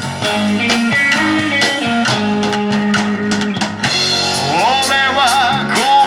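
Rock band playing live, with drum kit and guitar. A voice sings a bending, wavering line from a little past the middle.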